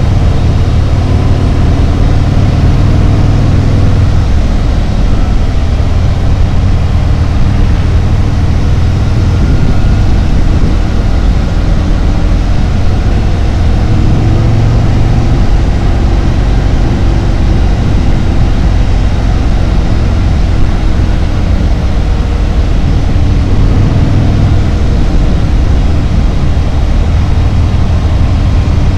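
Harley-Davidson Road Glide's V-twin engine running steadily while the motorcycle rides along the road, a loud, even low rumble with a broad rush of road noise above it.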